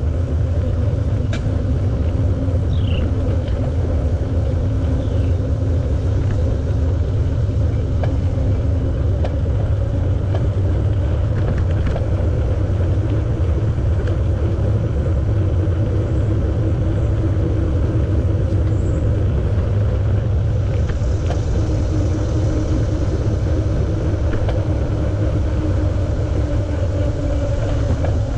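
Steady low rumble of a bicycle ride on a paved path: tyres rolling and wind on the microphone, with a faint steady hum. A few faint short chirps near the start.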